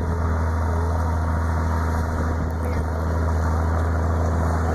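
Case 170 CVX tractor's engine running steadily, a low, even drone.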